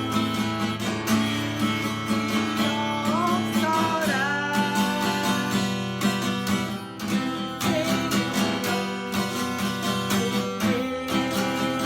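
Acoustic guitar strummed in a 3/4 waltz pattern: a bass stroke followed by down and up strokes, moving through C, G7, F, A minor and D minor chords.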